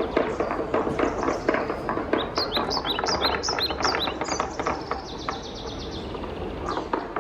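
Wooden balls rolling and clattering down a wooden marble run: rapid, irregular wood-on-wood knocks, many with a short ringing tone. The knocks thin out in the last couple of seconds, with one louder clack near the end.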